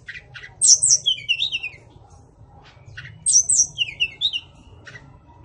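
White-rumped shama (forest murai) singing: two loud phrases about two and a half seconds apart, each opening with high whistled notes and dropping into quicker, lower warbled notes, with short sharp call notes before each phrase.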